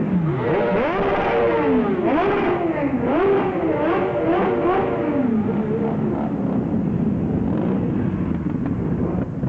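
Motorcycles pulling away in a group, one engine revving up and down in quick repeated throttle blips for the first five seconds or so over the steady running of many other bikes.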